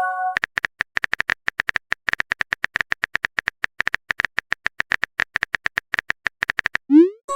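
A rapid run of short, even clicks, about nine or ten a second, in the manner of a text-typing sound effect. A brief chime chord rings at the very start, and a rising pop leads into the same chime near the end.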